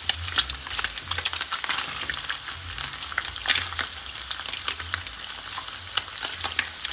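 Slices of spleen frying in melted pork lard in a frying pan: a steady sizzle full of sharp crackles and pops, while a metal fork turns the slices in the pan.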